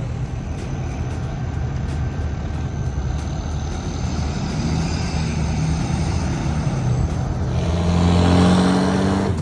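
Truck engines running at a dirt drag strip, a steady drone, then about two seconds before the end a louder engine revving up with rising pitch.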